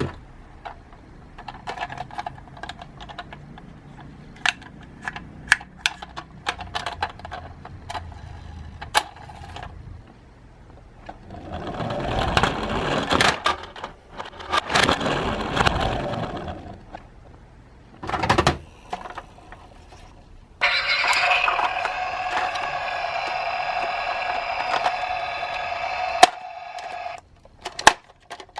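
Toy cars rolling and clattering, with many sharp clicks and knocks, two swelling rushes of noise around the middle, and near the end about five seconds of a steady buzzing electronic tone.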